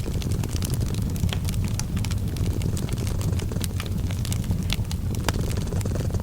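A cat purring in a steady low rumble, mixed with wood fire crackling in many small sharp pops.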